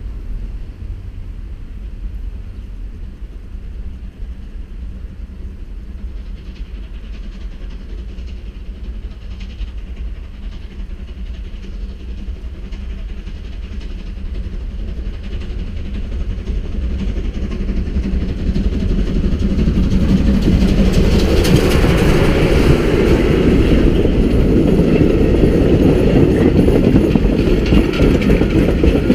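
Steam-hauled train of vintage passenger coaches approaching and passing close by. It grows steadily louder from about two-thirds of the way in, then turns into a loud, dense rolling of wheels on rail, with clickety-clack as the coaches go by.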